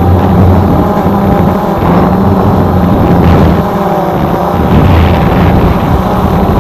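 Drone's motors and propellers whirring steadily: a loud buzz of several steady pitches over a low hum that swells and dips.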